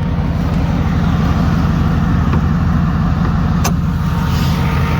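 Twin-turbo 6.0-litre LS V8 idling steadily with a low, pulsing exhaust note. A single sharp click comes about three and a half seconds in.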